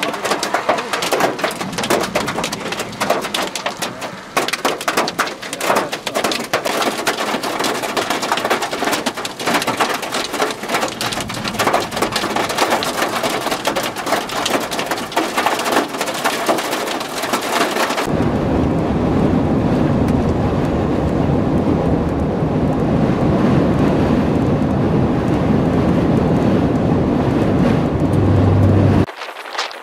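Hail and heavy rain falling, a dense clatter of many sharp impacts. About 18 seconds in the sound changes abruptly to a deeper, louder steady roar of storm noise, which cuts off suddenly just before the end.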